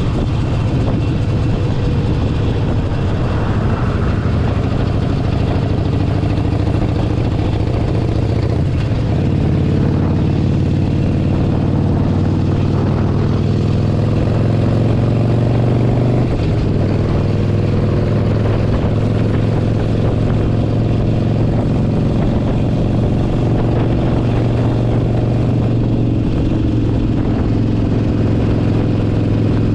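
Harley-Davidson Forty-Eight Sportster 1200's air-cooled V-twin engine running under way, heard from the saddle over steady road noise. Its pitch climbs for several seconds, drops sharply about halfway through, then holds steady.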